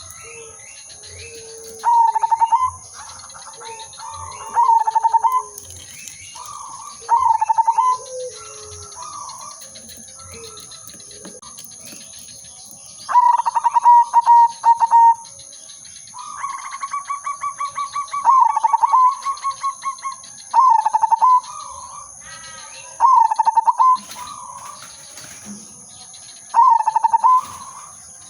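Zebra dove (perkutut) singing: short, rapidly pulsed cooing phrases repeated every two to three seconds, with a longer run of quick coos about two-thirds of the way through.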